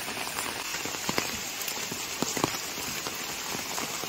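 Heavy monsoon rain falling steadily, with scattered louder drops striking close by.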